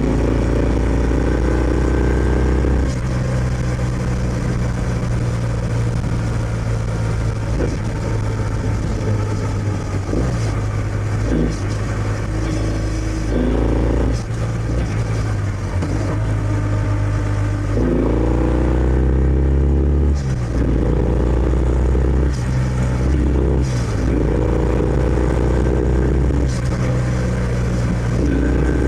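Kawasaki W650's air-cooled parallel-twin engine running through its stock exhaust under way, pulling up in pitch through the gears several times, each rise breaking off at a shift and picking up again lower, with steady cruising between.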